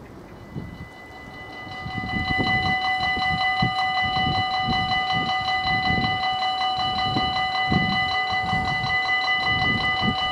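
Level crossing warning bell starting up and then ringing steadily in a fast, even electronic chime, the signal that a train is approaching and the crossing is closing. The bell gets louder about two seconds in, with an uneven low rumble underneath.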